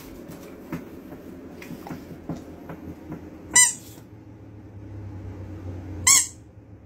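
Pit bull-type dog giving two short, high-pitched squeals about two and a half seconds apart, each rising and falling slightly: begging for a chew held in front of it.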